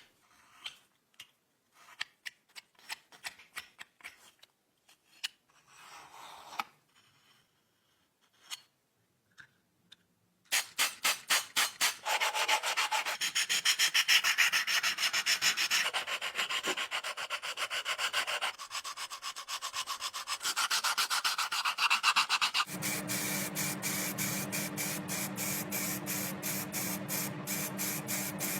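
A few light clicks, then about ten seconds in rapid, rhythmic sanding or rubbing strokes on a small part of the old pocket lamp begin. In the last several seconds a steady hum joins the strokes.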